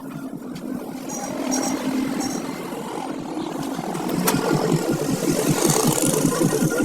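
An engine running, its quick, even firing pulses growing louder about four seconds in, with a single sharp click just after the pulses set in.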